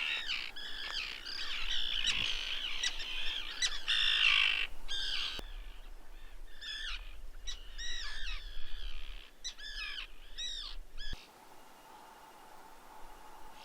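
A colony of gulls calling, many harsh repeated cries overlapping. The calls stop abruptly about eleven seconds in, leaving a faint steady hum.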